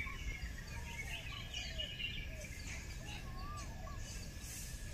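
Small birds chirping and calling again and again, short rising and falling notes, over a faint steady low rumble.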